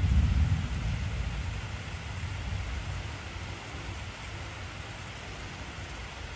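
Heavy rain falling steadily, with a low rumble of thunder that is loudest at the start and slowly dies away over a few seconds.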